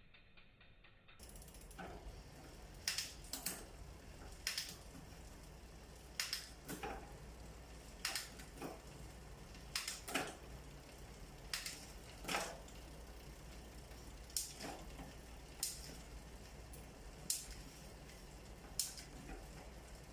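Mountain bike drivetrain being shifted through the gears: sharp clicks, mostly in pairs about half a second apart, repeating every second or two, over a steady low running hum.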